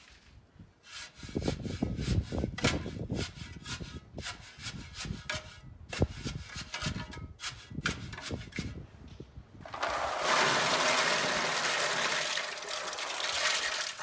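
Irregular knocks and scrapes for several seconds, then a steady rush of flowing water for the last four seconds.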